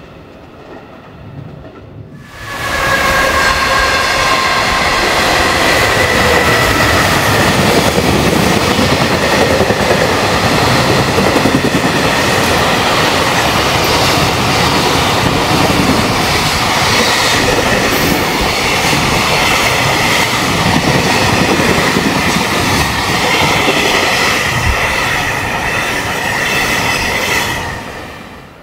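An electric train running along the tracks beside the camera: loud wheel-on-rail rumble and clatter with a steady whine. It starts abruptly about two seconds in and falls away near the end.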